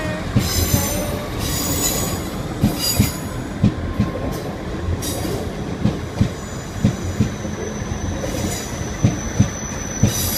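South West Trains Class 444 electric multiple unit moving past on the station tracks. Its wheels knock repeatedly over rail joints and pointwork, with recurring bursts of high-pitched wheel squeal, and a thin steady high whine comes in about eight seconds in.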